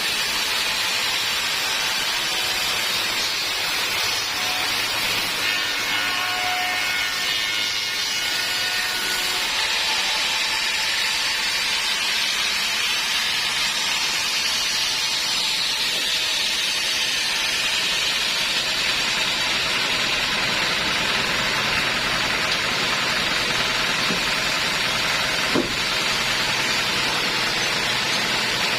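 Homemade band sawmill running steadily, its blade cutting lengthwise through an old teak log.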